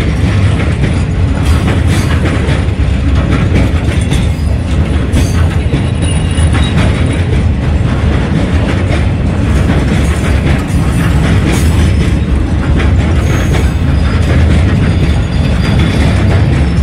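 Phosphate hopper wagons of a freight train rolling past close by: a steady heavy rumble of steel wheels on rail, with irregular clicks and knocks as the wheels cross rail joints and now and then a brief high wheel squeal.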